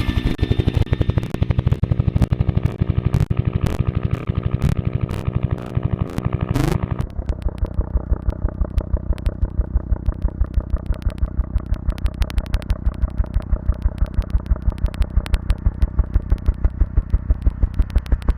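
Helicopter engine and rotor running, with a fast, even blade beat. About seven seconds in the sound changes after a brief rising pitch and settles into a steadier, regular chop.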